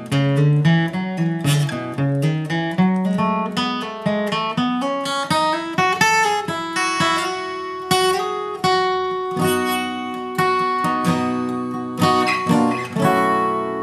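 Acoustic guitar flatpicked: a quick run of single notes through the lower strings in the first half, then slower notes and strummed chords left ringing through the second half.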